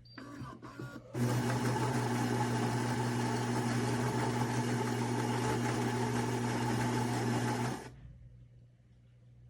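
Philips fully automatic espresso machine buzzing steadily for about six and a half seconds, then cutting off abruptly. A few short clicks and rattles come just before it starts.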